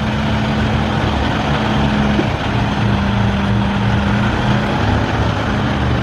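Semi truck's diesel engine running at low revs while the rig backs slowly into a loading-dock door: a steady drone over an evenly pulsing low rumble.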